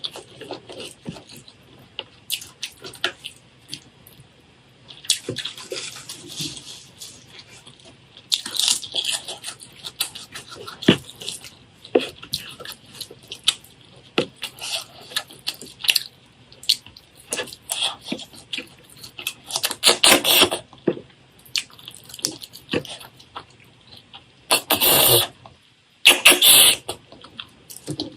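Close-miked eating sounds: wet chewing with many small crackles and mouth clicks, and a few louder, longer bursts about two-thirds of the way through and near the end.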